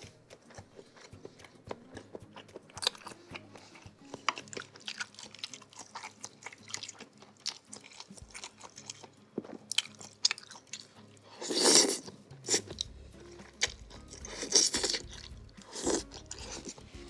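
Close-miked eating sounds: a person biting and chewing a bowl of seblak (spicy noodles with crackers, sausage and meatballs), with many small wet clicks and a few louder bursts in the last third.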